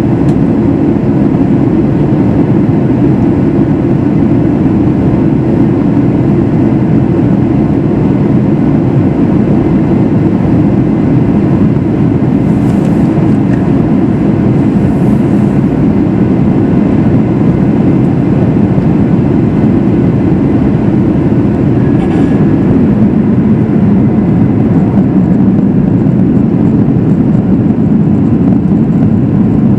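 Steady cabin noise of a Boeing 737 MAX 8 in flight, the deep even hum of its CFM LEAP-1B engines and the airflow past the fuselage, heard from a window seat by the wing.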